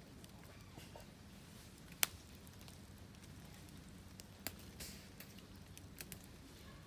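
Wood fire crackling, with scattered sharp pops at irregular intervals, the loudest about two seconds in and another about four and a half seconds in.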